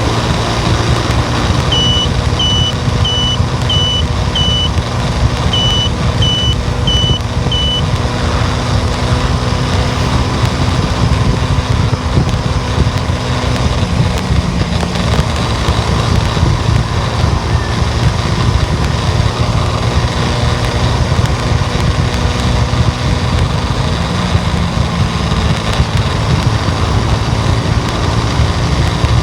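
Steady road and engine noise inside a moving car. Near the start a high electronic beep sounds nine times, about two-thirds of a second apart, in a run of five and then four.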